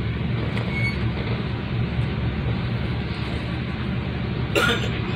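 Steady low rumble and rolling noise inside a moving MBTA commuter rail passenger coach, with a brief sharp sound near the end.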